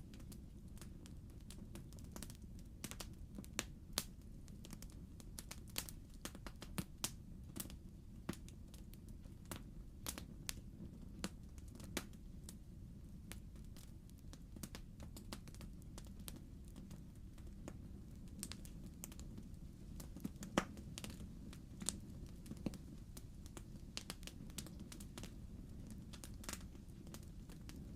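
Wood fire burning in a fireplace, crackling: irregular sharp pops and snaps over a soft steady rumble of the flames.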